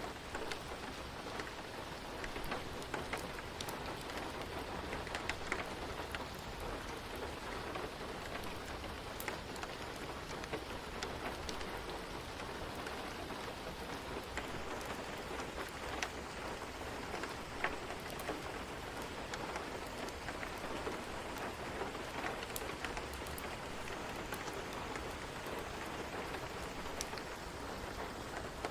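Steady rain falling, with a constant hiss and many scattered drops tapping on a surface.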